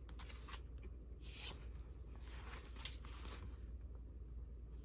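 Faint rustling of old paper cards being handled, with a couple of soft swishes and a few light taps.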